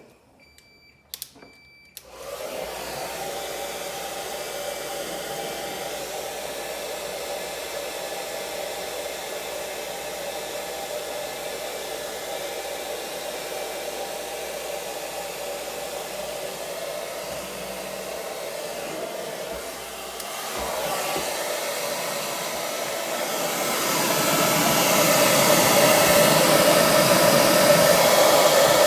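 Hair dryer switched on after a couple of clicks about two seconds in, then running steadily as it blows into a frozen refrigerator ice maker to melt the ice buildup. It grows louder in two steps in the last third.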